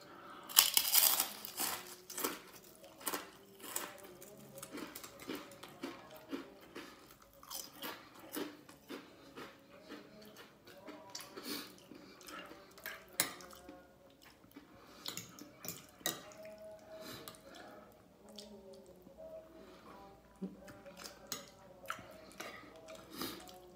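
Shrimp chip bitten with a loud crunch about half a second in, then chewing with many small crunches and mouth clicks. Spoon and fork scrape on a plate near the end.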